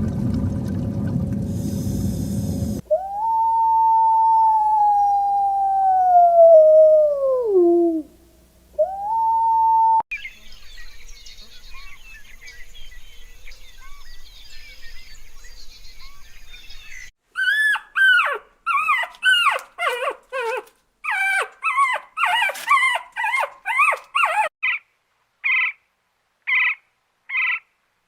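A long animal howl that slowly falls in pitch, followed by a short second howl. Later come a quick run of chirping calls and then short calls spaced evenly, about one a second.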